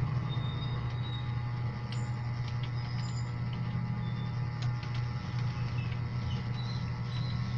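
A steady low hum, with a few faint sharp clicks and several short high chirps over it.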